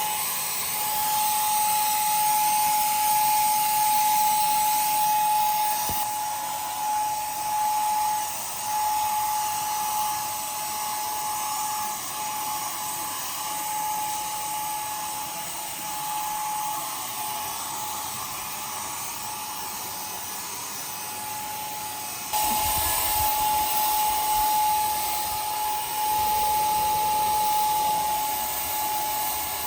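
A power tool running steadily, a constant high whine over a strong hiss, with its level shifting about six seconds in and again about twenty-two seconds in.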